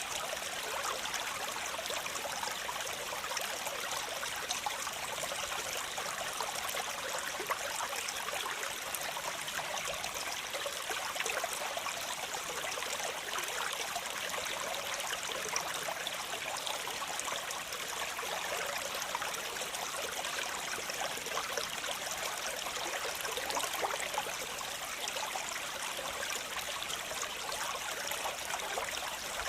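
Waterfall: water splashing and rushing, a steady hiss strongest in the upper range.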